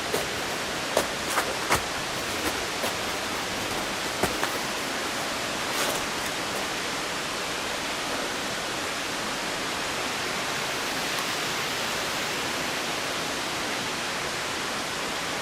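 Steady, even rush of a waterfall's falling water. A few light clicks and knocks sound over it in the first six seconds.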